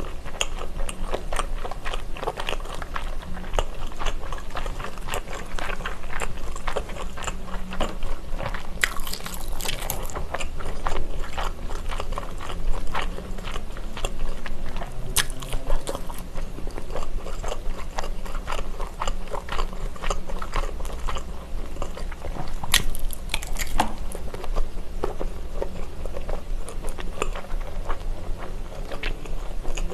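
A person biting into and chewing a skewered sausage topped with ketchup, with many small wet mouth clicks.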